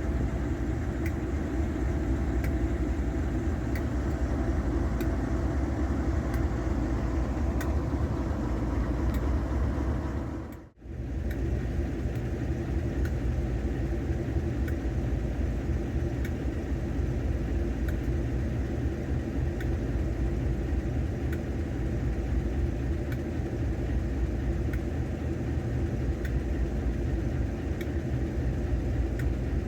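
Diesel locomotive engine running with a steady low rumble. The sound drops out briefly about eleven seconds in, then carries on.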